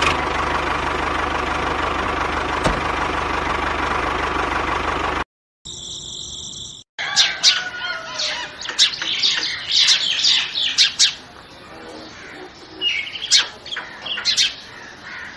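A steady whir for about five seconds that cuts off abruptly, then a brief high tone, then birds chirping repeatedly in quick short calls.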